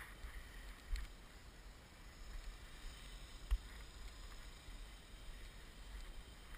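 Wind buffeting the microphone as a low, uneven rumble, with a faint steady high whine underneath and two short knocks, about a second in and about halfway through.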